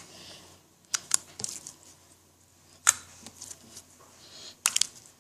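Handling noise from sticky putty being poked and pulled: a few scattered sharp clicks and small sticky pops, with a short cluster near the end.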